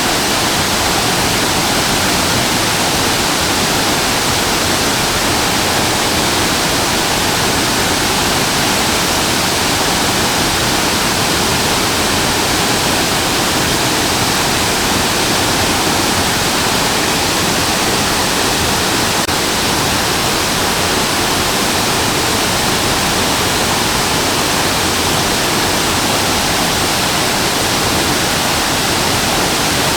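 Shasui Falls, a waterfall, with water pouring down and splashing in a steady, unchanging rush.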